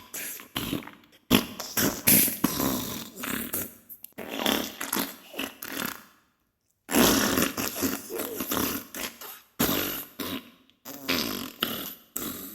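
Diarrhea sound effect: a string of irregular, spluttering fart noises, broken by a short silence about six seconds in.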